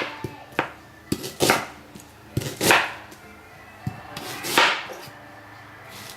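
Kitchen knife chopping an onion into chunky pieces on a cutting board: a handful of irregularly spaced chops, some crisp and some duller.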